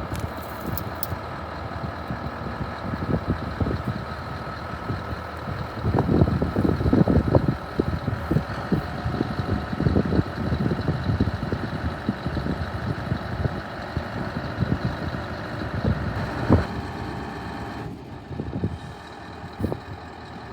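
Scania R620 truck's V8 diesel engine running steadily at idle, with gusts of wind buffeting the microphone, strongest about six to ten seconds in.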